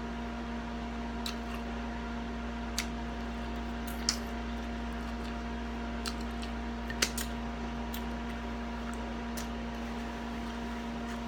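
Close-up mouth sounds of someone eating barbecue ribs: a scattering of short, sharp smacks and clicks at irregular intervals, the loudest about seven seconds in. Under them runs a steady hum.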